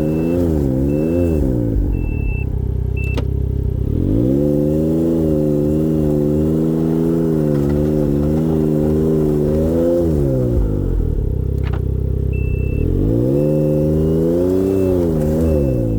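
2023 Ford Expedition's twin-turbo V6 engine revved up and held at raised speed, dropping back to idle about eleven seconds in, then revved and held again. A single sharp click sounds about three seconds in and again near twelve seconds, the click the owner cannot explain, and a short high pulse repeats about once a second near the start and near the end.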